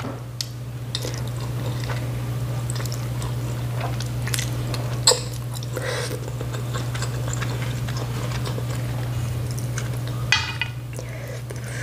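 Close-miked chewing of noodles in soup, with soft wet mouth sounds, one sharp click about five seconds in and a short cluster of clicks near the end, over a steady low hum.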